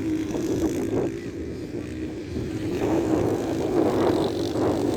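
Small-displacement motorcycle engines of a 125–160 cc motocross race running on the track, their note wavering up and down as the riders throttle on and off.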